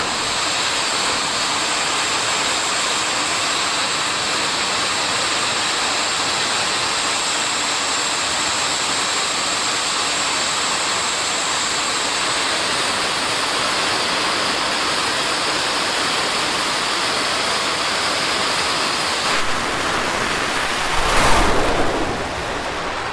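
Jet turbine engine of a jet-powered drag car running steadily, a loud hiss with a thin high whine over it. About 21 seconds in it surges louder for a moment, then eases back.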